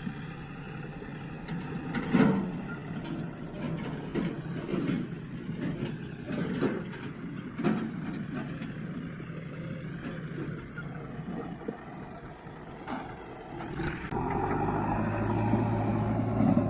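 Heavy diesel machinery running steadily, with a few short knocks and clanks. About 14 seconds in, the engine gets louder and settles into a steady drone.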